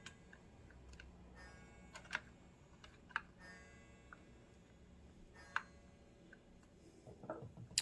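A few sharp, scattered light clicks and taps from small metal parts of a sewing machine mechanism being handled and fitted, with a small cluster near the end.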